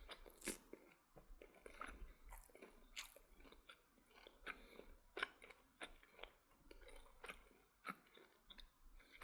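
Crunchy fried chicken being chewed, with irregular crisp crackles about once or twice a second.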